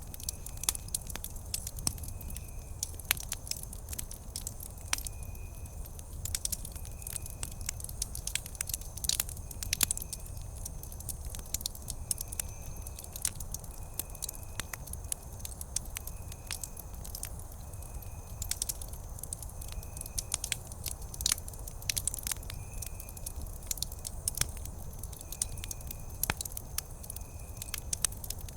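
Wood campfire crackling, with many irregular sharp pops and snaps over a low steady rumble. A faint short high chirp repeats about once a second.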